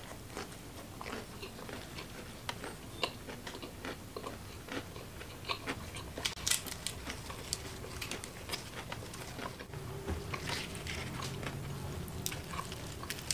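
A person chewing and biting food close to the microphone: irregular wet mouth clicks and crunches.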